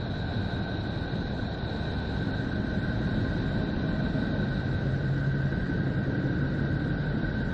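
Space-style 'planet sound' drone: a steady low rumble with two high, steady tones held over it.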